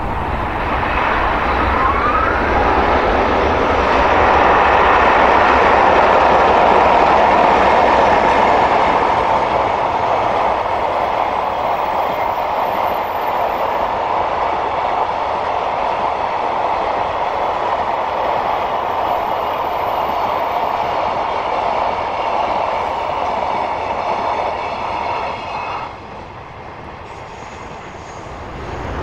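EH500 electric freight locomotive hauling a container train past, its dynamic-brake cooling blower started, followed by the steady rumble of the container wagons. The sound is loudest as the locomotive goes by and drops off suddenly near the end as the train clears.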